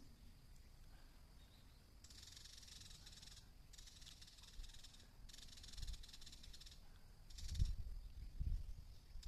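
Outdoor ambience: a steady faint high tone, with repeated bursts of high hissing buzz about a second and a half long, and low rumbles near the end.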